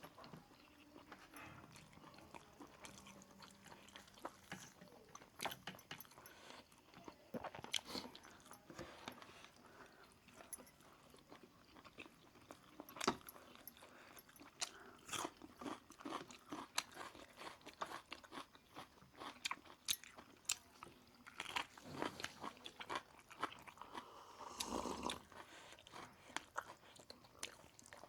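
Close-up eating sounds: a person biting and chewing a roast chicken meal, with frequent crunches and wet mouth clicks. A longer, fuller sound comes about three-quarters of the way through.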